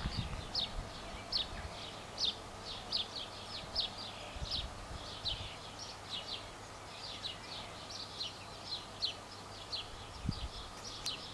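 Songbird singing: a rapid, irregular run of short, high chirps, a few each second, over faint outdoor background with a low rumble now and then.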